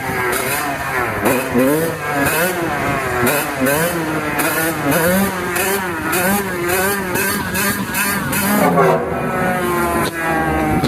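Kawasaki KX100 two-stroke dirt bike engine, revved up and down again and again under the throttle, then from about nine seconds climbing steadily in pitch as the bike accelerates.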